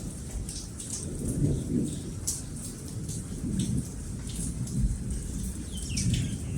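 Steady rain pattering, with thunder rumbling low underneath in slow swells.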